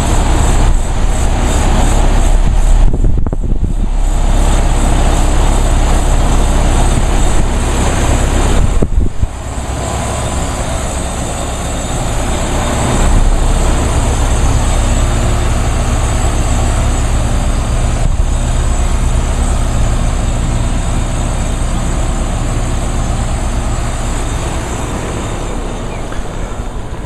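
2013 Westinghouse high-efficiency central air conditioner's outdoor unit running, its compressor and condenser fan making a steady hum with a low rumble.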